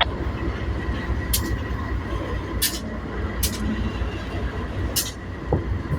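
Freight train rolling past: a steady low rumble from the wheels on the rails, with a few sharp clicks.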